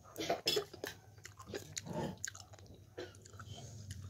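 A man chewing a mouthful of soft cooked wax gourd (winter melon), with wet clicking mouth sounds, louder in the first two seconds and fainter after.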